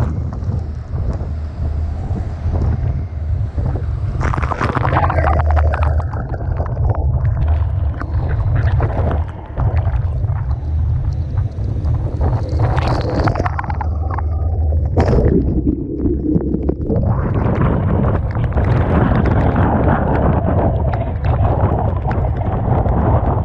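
Typhoon-force wind buffeting the microphone with a constant deep rumble, over rough sea and blowing spray that rush up in surges, strongest about four seconds in and from about two-thirds of the way through.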